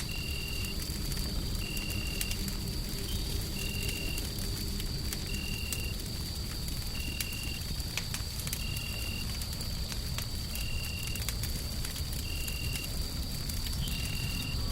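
Wood fire crackling with scattered sharp pops over a steady low white-noise rumble. A thin high whine holds steady throughout, and a short high beep repeats about every two seconds.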